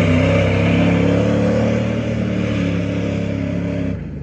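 Mud bog race truck's engine running hard at high revs through the mud pit, loud, its pitch wavering a little. It cuts off suddenly about four seconds in.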